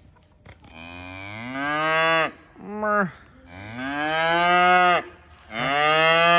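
Miniature cow mooing four times, three long moos and a short one in between. Each moo swells and rises in pitch, then sags at the end.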